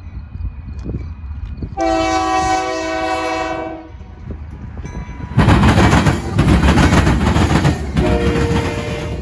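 Diesel freight locomotive's air horn sounds one long chord blast about two seconds in. About five seconds in, the train arrives with a sudden loud rush of engine and wheel-on-rail noise, and the horn sounds again, shorter, near the end.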